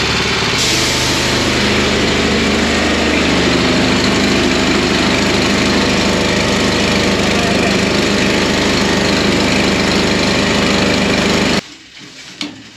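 An engine running steadily under a loud, even hiss, cutting off suddenly near the end.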